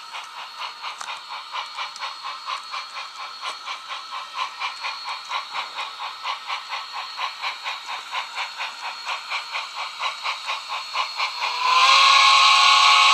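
HO-scale model steam locomotive's sound system chuffing steadily at about four beats a second, growing louder as it comes closer. Near the end a loud multi-chime steam whistle starts blowing.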